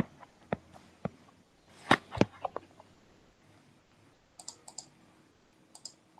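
Scattered clicks of a computer mouse and keyboard. There are a few sharp clicks in the first half and lighter, higher clicks in small clusters near the end.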